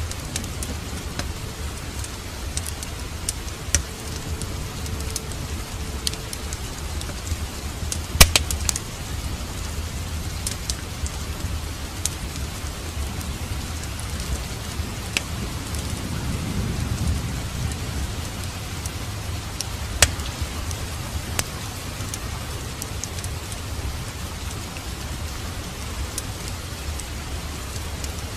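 Steady rain with a log fire crackling and popping, sharp pops scattered throughout, the loudest about eight and twenty seconds in. A soft low rumble swells and fades about sixteen seconds in.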